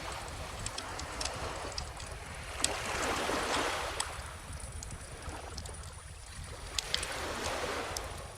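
Calm ocean waves washing in under a crackling bonfire, with short sharp pops and snaps throughout. The loudest surge of the waves comes a few seconds in and a smaller one near the end, over a steady low rumble.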